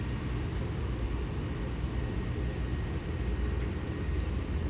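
Cessna Grand Caravan floatplane's turboprop engine running: a steady low rumble with a faint high whine.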